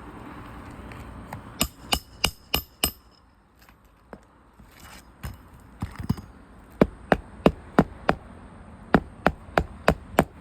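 Hammer blows on a shingle roof: five quick sharp strikes about two seconds in, then after a pause a steady run of about ten strikes, roughly three a second, through the second half.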